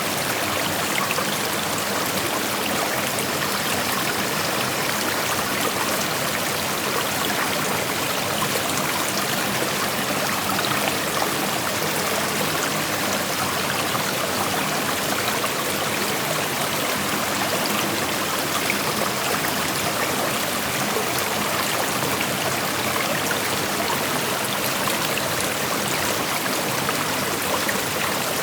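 Creek water flowing and rushing over rocks, a steady, even burble of running water.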